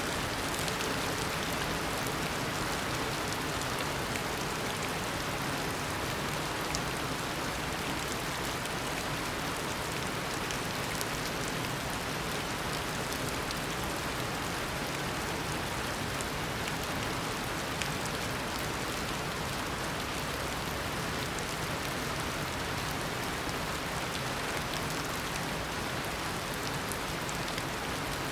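Heavy tropical rain falling in a steady downpour, with a dense patter of individual drops striking surfaces.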